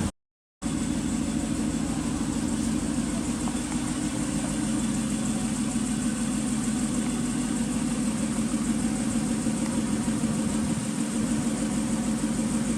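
Honda NSX NA1's 3.0-litre V6 idling steadily through an aftermarket muffler, after a brief gap of silence just after the start.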